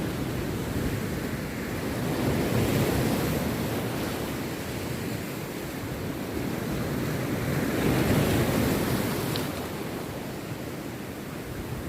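Rough sea surf breaking on a beach, with waves swelling and washing in twice, around three seconds in and again around eight seconds.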